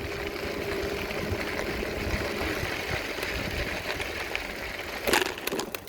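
Small engine running steadily under the rider on a trail, with a short clatter about five seconds in, after which the sound drops away.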